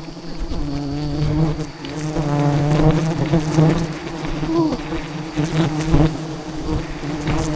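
Swarm of wild giant honey bees buzzing, a steady massed hum, with a few sharp knocks about two-thirds of the way through.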